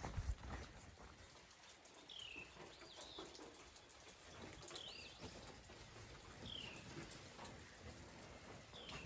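A bird calling faintly with short high whistled notes that slide downward, about five of them a second or two apart, over the soft patter of rain.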